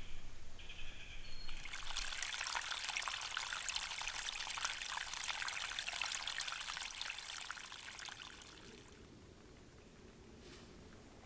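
Water pouring steadily for about seven seconds, then tapering off. Near the start an insect gives a short pulsed chirp.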